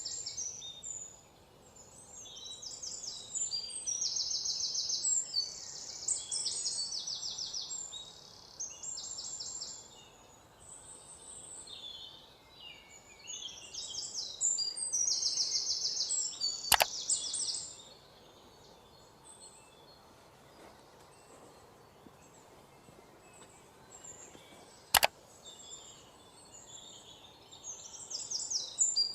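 Small birds chirping in rapid high bursts, busiest in the first half and again near the end, with a quieter stretch between. Two sharp clicks stand out, one just past the middle and one later.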